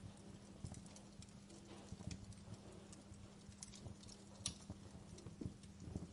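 Wood fire in a fireplace crackling, with irregular sharp pops and snaps over a low rumble of flames. A steady low hum runs underneath.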